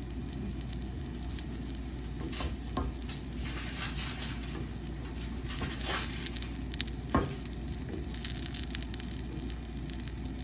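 Egg pancake with sausage and green onions sizzling in oil in a nonstick frying pan over a gas flame turned up high. A wooden utensil knocks and scrapes against the pan a few times, loudest about seven seconds in.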